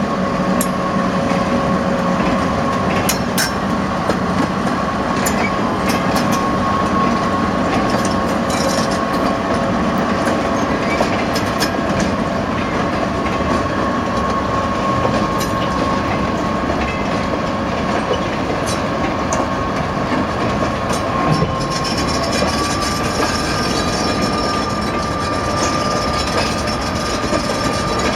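Freight train rolling past: wagon wheels clacking over rail joints under a continuous rumble, with a steady high ringing tone that shifts slightly higher about 22 seconds in.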